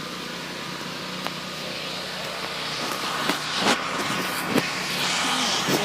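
An engine running steadily, getting louder over the second half, with a few sharp clicks or knocks.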